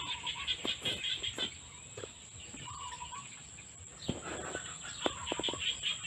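Outdoor countryside ambience: a short bird call repeats three times, about every two and a half seconds, over steady high chirping, with a few soft clicks.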